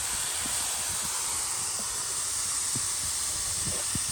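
Garden hose spraying cold water through an air conditioner's condenser coils: a steady spray hiss, rinsing out foam coil cleaner.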